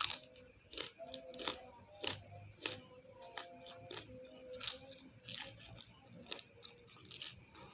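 Close-up crunching as raw mustard greens are bitten and chewed, a crisp crunch about every two-thirds of a second.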